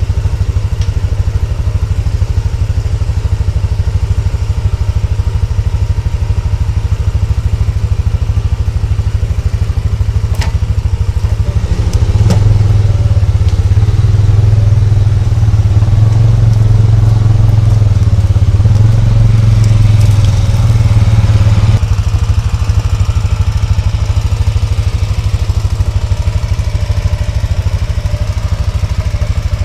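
ATV (quad bike) engine running with a rapid, steady low pulse. It works harder and louder for about ten seconds in the middle, then drops back.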